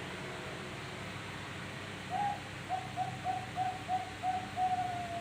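A young zebra dove, about five months old, cooing. One note comes about two seconds in, followed by a quick run of short coos about three a second, and the phrase ends on a longer drawn-out note.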